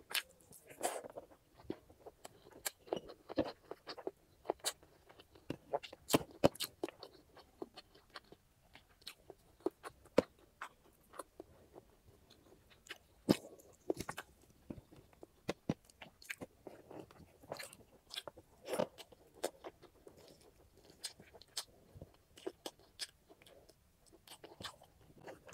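Close-miked eating: a person chewing and biting grilled chicken and rice, with many irregular sharp mouth clicks and wet smacks.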